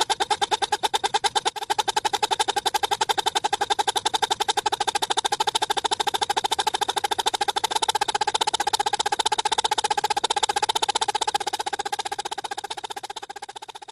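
Pop-pop (otok-otok) toy boat putting steadily with rapid metallic clicks, about ten a second, from its flame-heated boiler. The putting fades out near the end.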